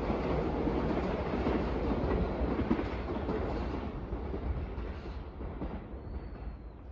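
Tobu Railway electric train running along the track, wheels clattering over the rail joints, the sound steadily fading as the train moves away.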